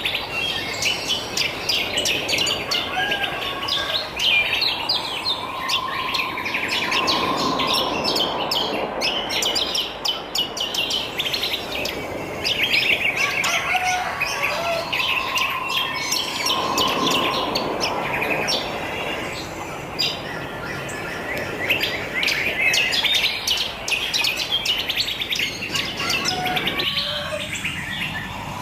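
A dense chorus of many wild birds chirping and trilling at once, with rapid high notes overlapping continuously. Twice a lower, steadier call rises out of the chorus for a second or two.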